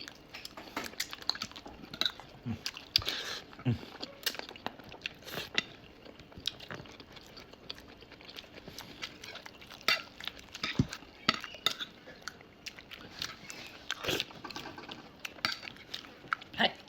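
Someone eating close to the microphone: irregular chewing and biting sounds, with scattered clicks that may be cutlery on dishes.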